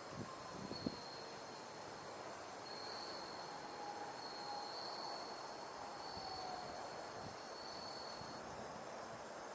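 Faint outdoor ambience: a steady hiss with insects trilling in high, repeated bursts about a second long, and a few faint, gently falling whistled calls.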